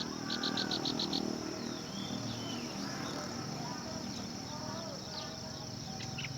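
Outdoor ambience: a steady high insect drone, with a quick run of about eight sharp chirps near the start and scattered short bird chirps through the rest.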